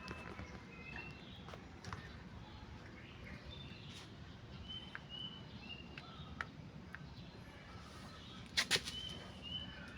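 A small bird giving short, high chirps every second or so while being fed worms, with a few sharp clicks; the loudest are two clicks close together near the end.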